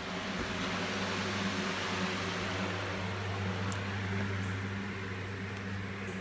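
A steady mechanical hum with a hiss over it, a little louder through the middle, with a few faint clicks.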